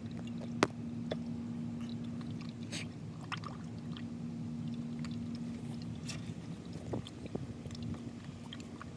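Motor oil glugging as it is poured from a bottle through a funnel into the truck's engine, with scattered soft clicks and scrapes from handling the bottle and funnel, the sharpest about half a second in. A steady low hum of unclear source runs underneath.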